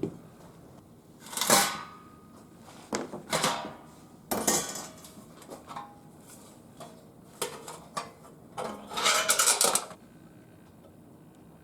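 Thin metal parts of a homemade folding fire pit clattering and clanking as they are handled, in several separate bursts, with a longer run of rapid rattling near the end.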